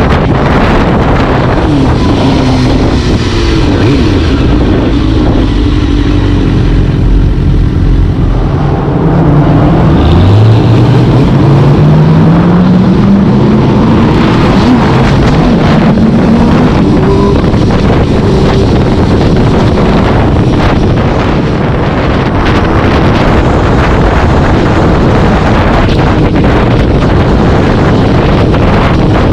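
Heavy wind rush buffeting the microphone while a vehicle is under way, with an engine accelerating hard from about ten seconds in, its note rising steadily for several seconds.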